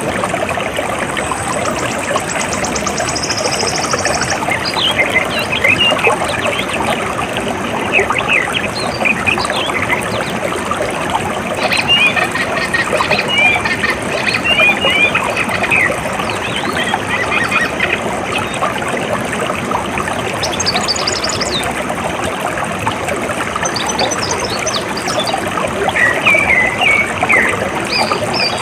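Water trickling and flowing steadily, with small birds chirping and calling in short bursts over it. A high, rapid trill sounds through the first few seconds.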